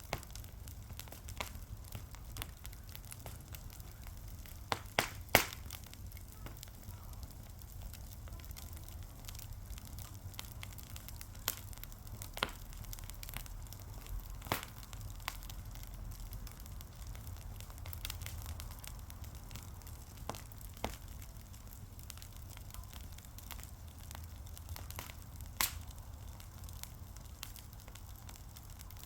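Wood fire crackling, with irregular sharp pops and snaps, the loudest about five seconds in, over a low steady rumble.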